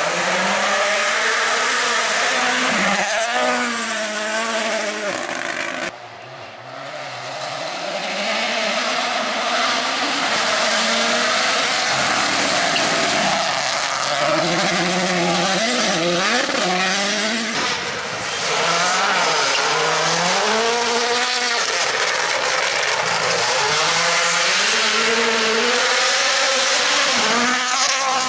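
Rally cars on a special stage, engines revving hard with pitch repeatedly climbing and dropping through gear changes, over a steady hiss of tyres. The sound cuts away abruptly about six seconds in, then builds again as the next stretch of engine noise sweeps up and down.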